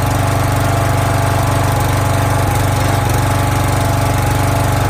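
Small gas engine of a firewood log splitter running at a steady speed, with an even, unchanging hum.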